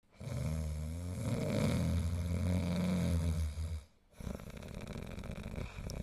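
Snoring: one long, low, rattling snore of about three and a half seconds, a short break, then a softer snore starting.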